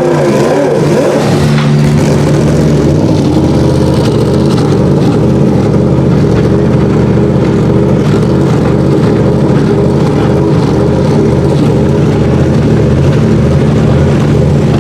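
Race car engine idling steadily, loud and close, its pitch holding level with no revving.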